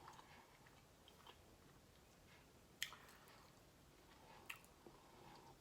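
Faint chewing of boneless buffalo wings, with a few soft mouth clicks, the sharpest about three seconds in.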